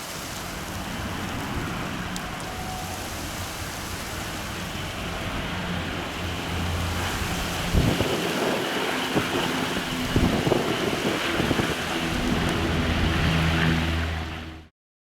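Strong gusty wind buffeting the microphone, with the low rumble of a jet airliner's engines growing louder during the second half; the sound cuts off abruptly near the end.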